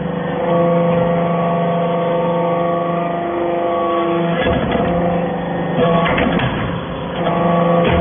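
Hydraulic metal-shavings baler running with a steady machine hum from its pump and motor. The hum shifts in tone about halfway, and harsher, noisier stretches of the machine working come in the second half.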